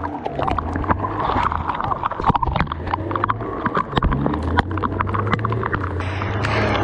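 Off-road vehicle's engine running steadily with many sharp knocks, clacks and rattles.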